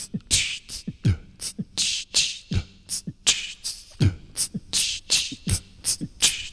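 Beatboxed drum loop played back through a Boss RC-505 loop station: deep vocal kick drums that drop in pitch alternate with hissing snare and hi-hat sounds in a steady beat.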